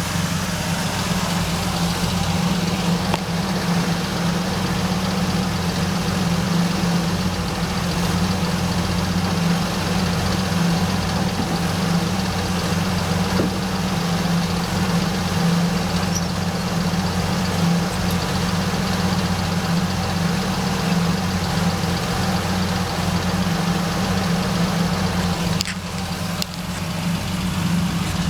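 The car's 1981 Pontiac V6 engine idling steadily, with a brief dip in loudness near the end.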